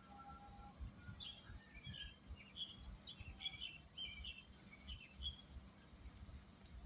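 A bird chirping: a quick string of short, high chirps for about four seconds, under a low, uneven thumping rumble on the microphone.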